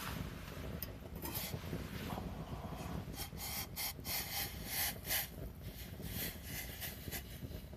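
Dry firewood sounds: a run of short, irregular crackles and scrapes from about a second in until about six seconds, thickest in the middle, over a steady low rumble.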